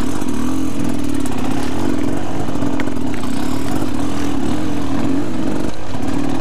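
Dirt bike engine running under way, its pitch wavering slightly up and down with the throttle, over steady road and wind noise.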